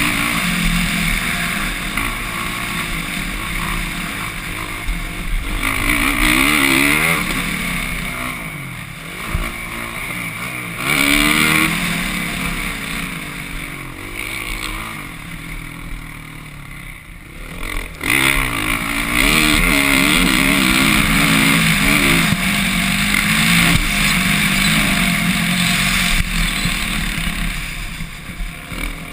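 Suzuki RM-Z450's four-stroke single-cylinder engine revving up and falling away over and over as the bike is ridden hard, over a steady rushing noise. Around the middle the throttle is eased and the engine drops to a low, quiet run for a few seconds, then it opens up loud again about eighteen seconds in.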